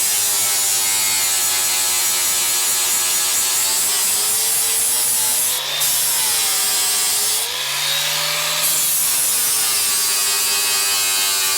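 Angle grinder polishing steel on a truck chassis, running continuously with a steady whine over a high grinding hiss that dips in pitch twice midway. The steel is being ground flush where the old engine-mount brackets were cut off.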